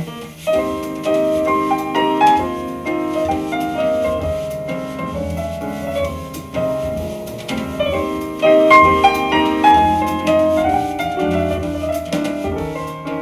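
Jazz piano trio music, piano over a walking double bass, played back through an EL34 push-pull tube amplifier and a Feastrex 5-inch field-coil full-range speaker.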